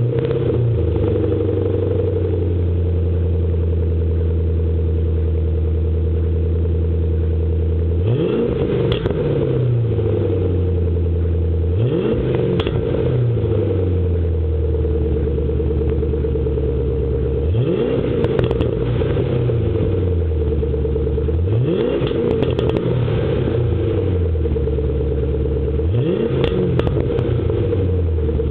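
2005 Ford Mustang GT's 4.6-litre V8 through a MAC aftermarket exhaust, idling steadily, then revved five times, each rev climbing quickly and falling back to idle over a couple of seconds.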